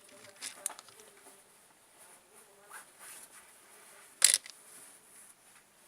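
A few light taps and clicks of small objects being handled, with one much louder sharp click about four seconds in.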